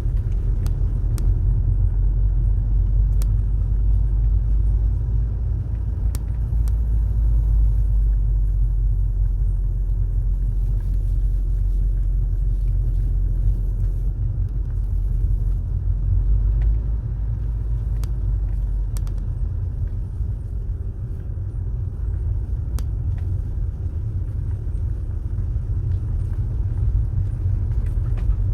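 A car driving along a road: a steady low rumble of engine and tyre noise, with scattered faint clicks and ticks and a slight easing of the rumble in the second half.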